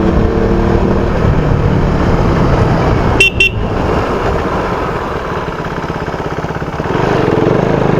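KTM motorcycle engine running on the road, with a horn giving two quick toots about three seconds in. The engine note eases off, then picks up again near the end.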